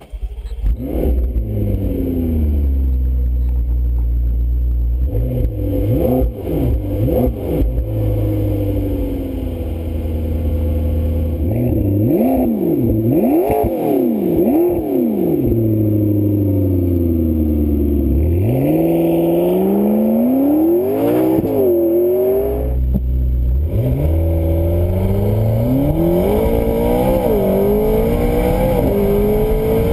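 McLaren 650S twin-turbo 3.8-litre V8 revving and accelerating hard. Around the middle it revs up and down several times in quick succession, then pulls through the gears, its pitch climbing and dropping sharply at each upshift.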